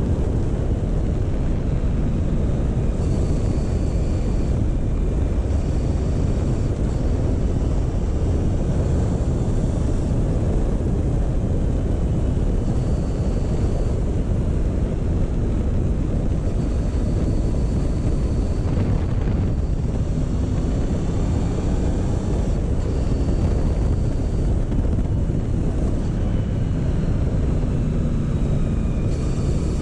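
Motorcycle engine running steadily at a slow cruising pace under heavy wind rumble on the microphone, the engine note rising slightly near the end.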